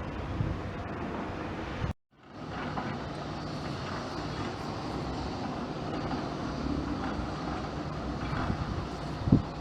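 Aircraft engine noise at an airport, a steady hiss with a low hum. It drops out abruptly about two seconds in and fades back up, and a short bump comes near the end.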